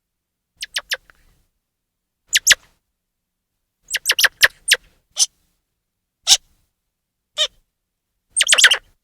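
Grey squirrel chirping calls: short, sharp, high chirps in irregular clusters, a quick run of about five around four seconds in and a fast burst near the end, with silence between.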